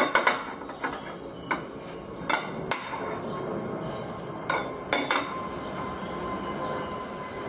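Metal parts and tools being handled on a workbench: about ten sharp, irregular metallic clinks and knocks over the first five seconds, then a faint steady hum.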